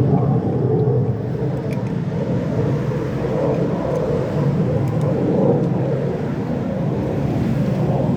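Husqvarna K970 power cutter's two-stroke engine running steadily, a loud even rumble with no change in speed.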